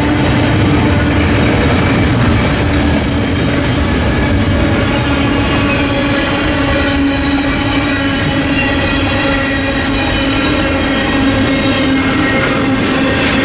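Norfolk Southern double-stack intermodal container cars rolling through a level crossing: the wheels on the rails keep up a loud, steady rumble, with steady tones running over it throughout.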